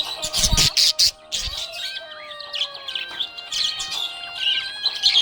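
Pet budgies chirping in quick, sharp bursts over a music track with held, gliding notes.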